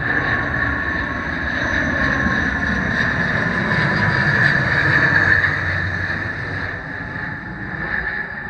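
ATR 72 twin-turboprop airliner passing on its approach to land, its engines and propellers droning with a steady high whine. It grows louder to a peak about five seconds in, then fades.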